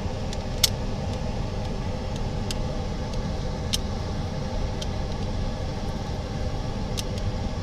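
Steady low hum and rumble of running workshop machinery, with a few small sharp clicks of parts being handled.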